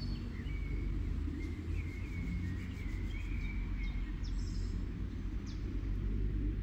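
Small birds chirping and twittering in short phrases over a steady low background rumble.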